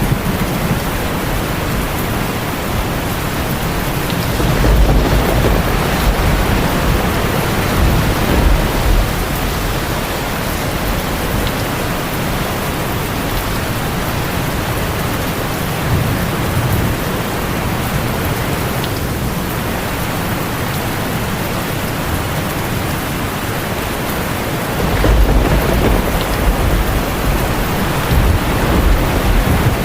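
Heavy rain drumming steadily on a tin roof, with thunder rumbling low twice, about four seconds in and again near the end.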